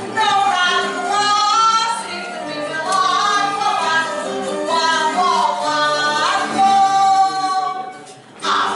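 Singing voices carrying a melody over steady instrumental accompaniment, with a brief break in the song near the end.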